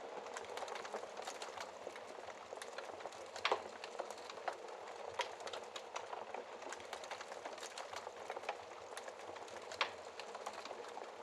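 Logs burning in a wood fireplace: a steady hiss of flame with frequent irregular crackles and pops, two louder pops about three and a half seconds in and near the end.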